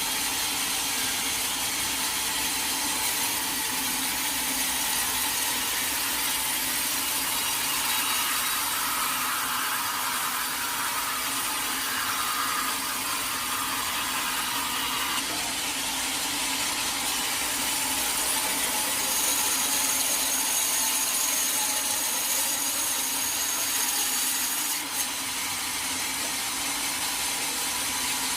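Sawmill saw running steadily through a teak log, a continuous cutting noise with a steady hum underneath.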